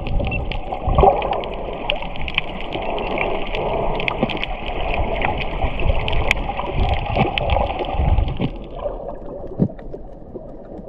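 Water gurgling and sloshing close to the microphone, with many small clicks and knocks throughout.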